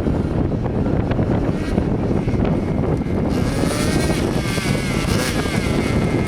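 Small .09-size glow engine of a 1/10-scale RC car buzzing while being broken in. From about three seconds in, a high whine comes up that wavers up and down in pitch over a steady rumble and hiss.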